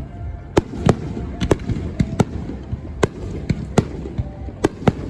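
Fireworks bursting in quick, irregular succession: about a dozen sharp bangs, two or three a second, over a continuous low rumble.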